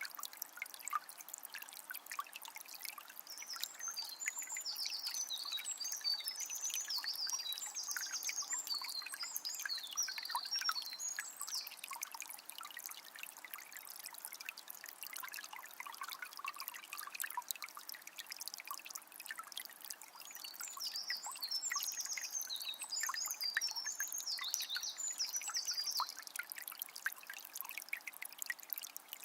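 A small spring's water trickling and splashing steadily. A songbird sings two long runs of quick, high chirping notes over it, the first starting a few seconds in and the second about two-thirds of the way through.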